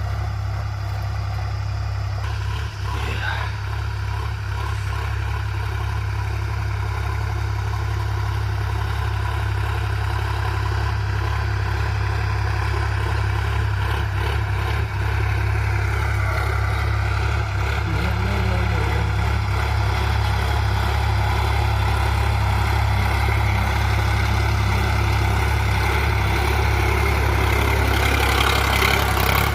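Sonalika tractor's diesel engine running steadily while ploughing a field, growing a little louder near the end.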